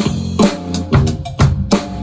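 Drum kit played along with a recorded band track: a steady pattern of bass drum, snare and cymbal hits over the band's melody.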